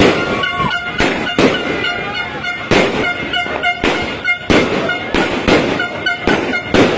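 Multi-shot consumer fireworks cake firing, its shots banging about twice a second in an uneven rhythm. A steady horn-like tone sounds in short broken stretches behind the bangs.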